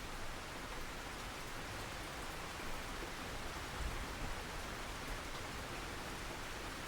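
Steady rain falling, an even hiss of many drops with a low rumble and a few slightly louder patters.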